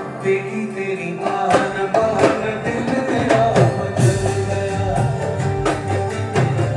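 Qawwali music played live: held steady notes and hand-drum strokes with singing.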